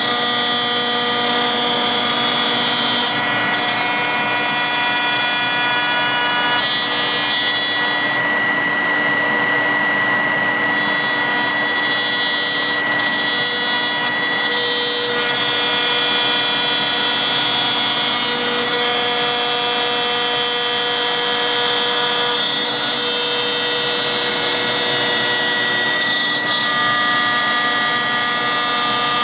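CNC router spindle milling 21 mm multiplex plywood: a steady whine whose tones shift every few seconds over the rushing noise of the cut.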